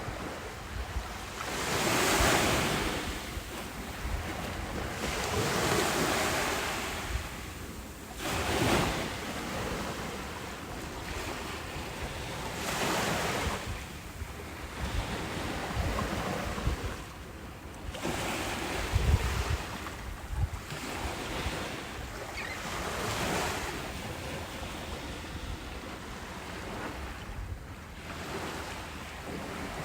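Ocean waves breaking and washing up a beach, one surge every few seconds, with wind buffeting the microphone. The loudest gust comes about two-thirds of the way in.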